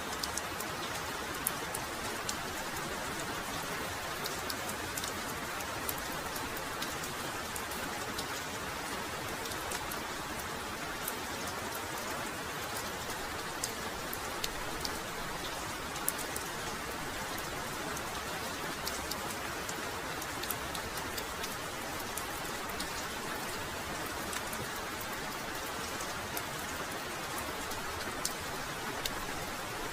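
Heavy, steady rainfall: an even hiss of rain with many sharp individual drop ticks scattered through it.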